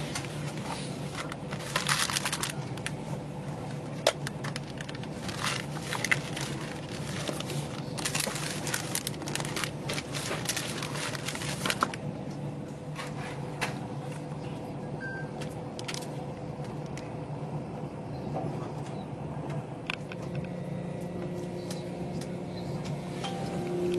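Tilt Train passenger carriage running: a steady hum with crackling and clicking rattles, thickest in the first half, and a new steady tone coming in near the end.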